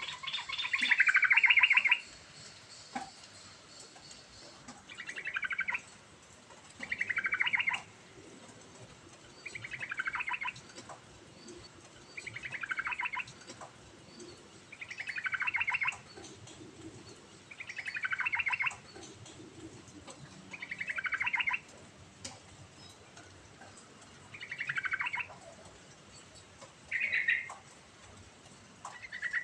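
Yellow-vented bulbul (trucukan) singing: a quick, rapidly pulsed phrase about a second long that falls in pitch, repeated every two to three seconds, about eleven times.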